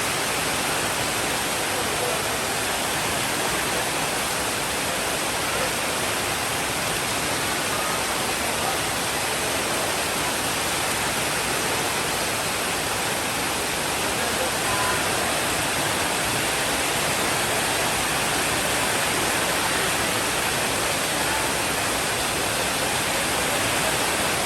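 Steady, heavy rainfall: a dense, unbroken hiss that stays even throughout, with no thunder.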